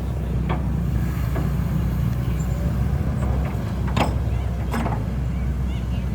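Steady low engine rumble, with a few sharp knocks about four and five seconds in.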